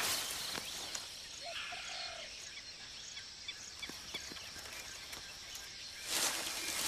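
Forest ambience: a steady high insect hum with a few faint bird chirps and light ticks. A louder rush of noise swells near the end.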